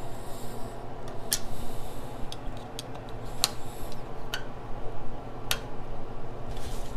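A handful of sharp, irregular clicks and taps of hand tools on metal, over a steady low background hum.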